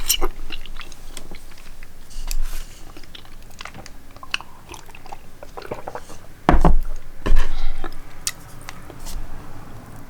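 Close-miked chewing and mouth smacks of a person eating, with scattered wet clicks. Two much louder sounds come about six and a half and seven and a half seconds in.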